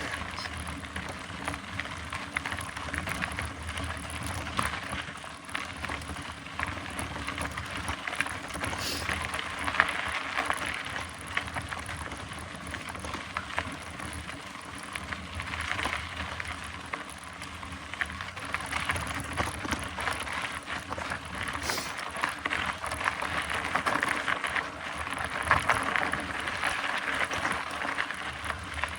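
Mountain bike being pedalled up a long climb: steady tyre and drivetrain noise, dotted with many small clicks and rattles.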